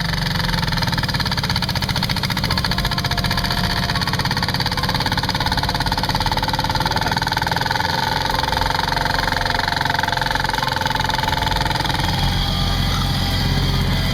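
Tractor diesel engine running steadily under power, with a whine through the middle that drops away about twelve seconds in.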